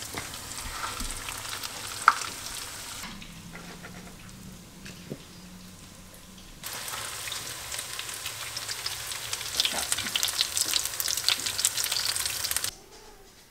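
Panko-breaded fish cakes frying in shallow oil in a skillet: a crackling sizzle with many small pops. It falls away for a few seconds in the middle, comes back louder, and cuts off suddenly near the end.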